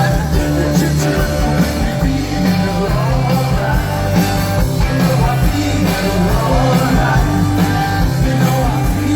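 A live rock band playing, with a full band sound of bass, drums and guitar and some singing.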